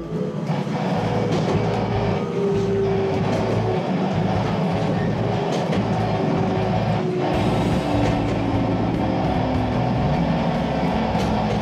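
Electric train running and slowing as it brakes into a station: a whine falls steadily in pitch over the running noise, with occasional wheel clicks over the rails.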